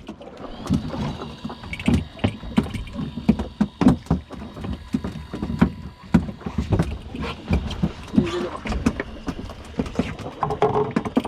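Irregular knocks and thumps on a small fishing boat, over a steady low wash, with a faint steady high whine starting about a second in.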